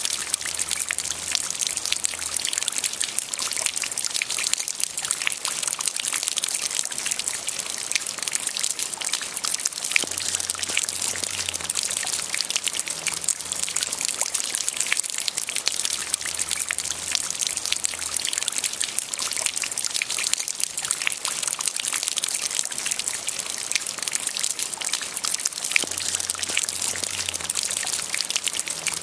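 Light rain falling steadily, a dense patter of many small drops.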